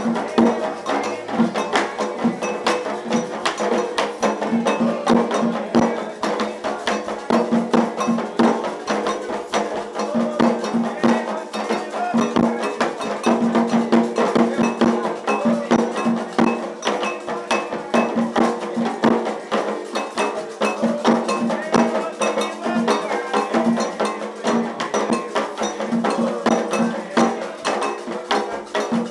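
Candomblé ritual music: hand drums and a metal agogô bell playing a fast, steady rhythm, with voices singing over it.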